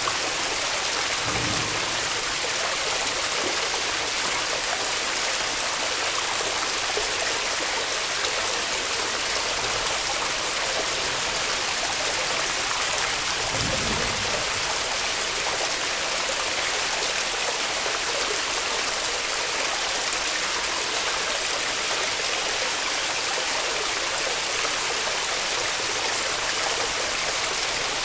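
Waterfall: water falling and rushing in a steady, even hiss. Two brief dull low bumps sound, one about a second in and one about halfway through.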